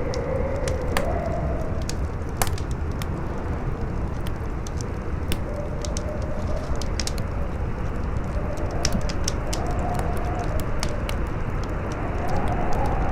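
Campfire crackling, with irregular sharp pops and snaps, over a steady low rush of strong wind that howls faintly, its pitch slowly rising and falling.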